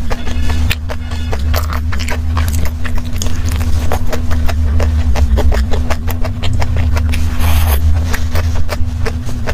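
Close-up crunchy chewing of a crisp-coated chicken cutlet: a bite near the start, then many short crackles as it is chewed. A steady low hum runs underneath.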